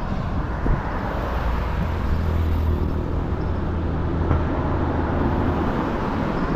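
Road traffic noise on a paved highway. A passing vehicle's low rumble swells in the middle and then eases.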